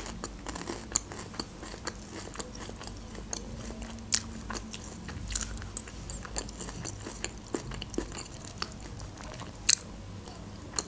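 Close-miked chewing of a mouthful of Caesar salad: wet, crackly crunching with many small clicks, and a few sharper clicks about four, five and a half and nine and a half seconds in.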